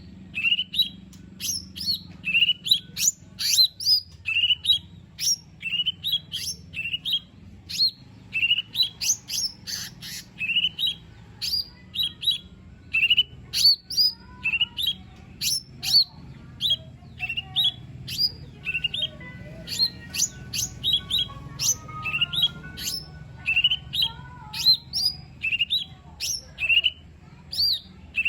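Cucak ijo mini, a small leafbird, singing a fast, unbroken stream of sharp chirps and short rising whistles, about two or three a second. Fainter, thinner warbling notes join in during the middle stretch.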